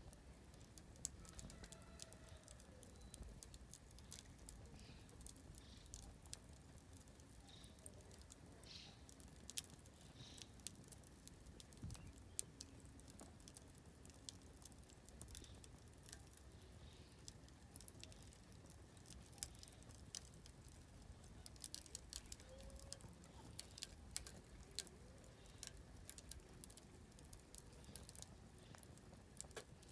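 Oak firewood burning in a campfire, crackling with irregular sharp pops that come thicker near the end. Faint distant birdsong chirps now and then.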